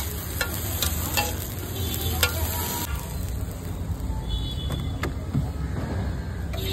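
Paneer masala sizzling on a hot flat griddle (tawa) while a metal spatula scrapes and taps against the pan, giving a few sharp clicks. The sizzle stops about three seconds in, leaving a low steady rumble.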